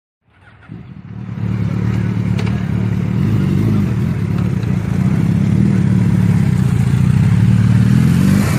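Motorcycle engine running at a steady speed, fading in over the first second or two after a cut and then holding a steady, loud drone.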